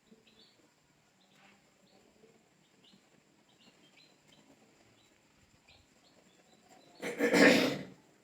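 Newly hatched chicks peeping faintly and repeatedly, followed near the end by a loud burst of noise lasting about a second.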